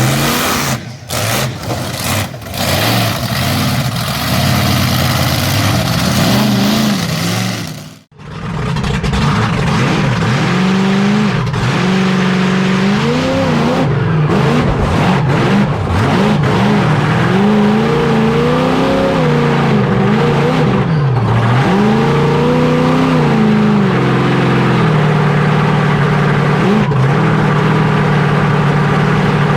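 Monster truck engine revving hard, its pitch climbing and falling again and again as the throttle is opened and closed. The sound breaks off sharply about eight seconds in, then comes back.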